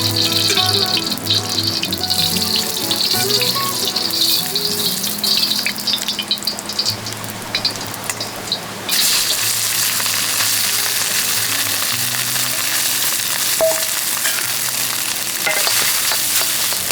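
A steady crackling hiss under soft background music with held melodic notes; about nine seconds in, the hiss turns broader and rougher.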